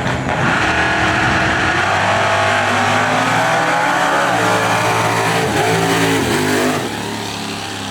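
A drag-racing pickup truck and a Camaro running at full throttle down the strip. Their engine notes climb and drop back a few times with gear changes, then fade as they pull away near the end.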